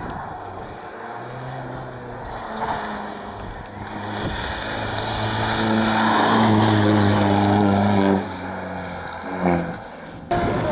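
Rally car engine at high revs, getting louder as the car approaches. About eight seconds in it suddenly drops off as the driver lifts, and a short throttle blip follows near the end.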